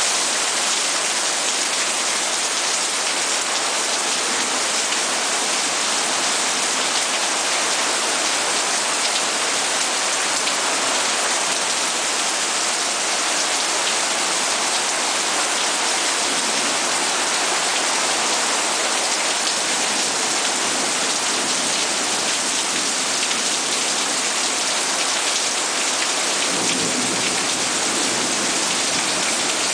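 Heavy rain pouring down in a steady, even hiss, with a brief swell of deeper sound near the end.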